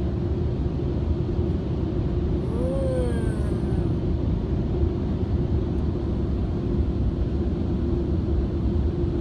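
Automatic car wash machinery running, heard from inside the car: a steady rumble with a constant hum. About three seconds in, a short tone rises and falls.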